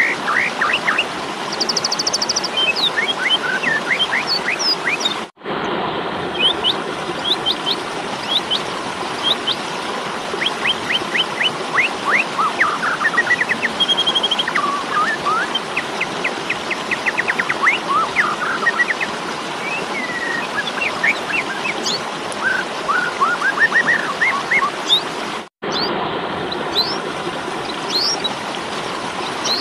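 Asian pied starling (jalak suren) giving rapid, harsh chirps and short whistled sweeps: the agitated fighting call used as a master song for training starlings. The calls sit over a steady background hiss, and the sound cuts out briefly twice, about five seconds in and again near the end.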